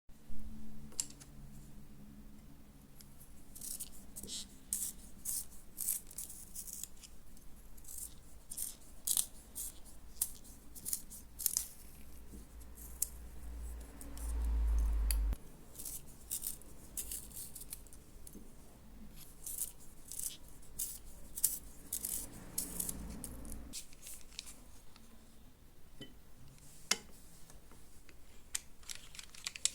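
Pencil sharpener shaving a pencil: irregular crisp scraping clicks as the blade cuts the wood, with a low rumble of handling about halfway through and again later.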